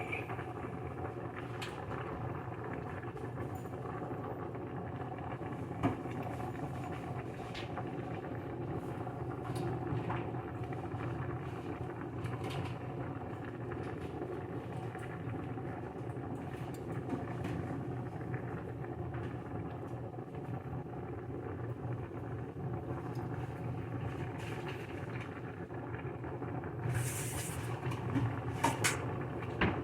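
A steady hum with a few faint clicks, a short hiss near the end and then a couple of sharp clinks.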